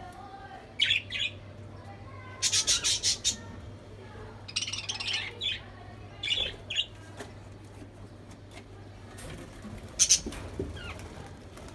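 Budgerigars in a cage giving sharp chirps and squawks in separate bouts, with a quick run of about eight calls a few seconds in and a loud pair near the end.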